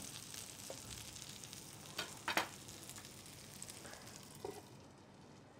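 An okra and vegetable omelette sizzling in oil in a frying pan, with two sharp clicks about two seconds in and a fainter one later. The sizzle fades near the end.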